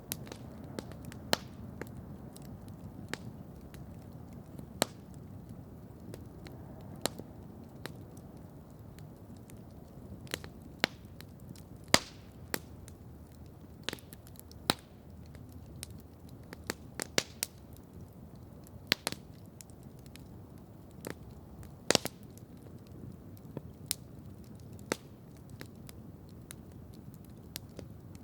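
Campfire crackling, with irregular sharp pops a second or two apart, two of them louder near the middle and about three quarters of the way through, over a steady low rush.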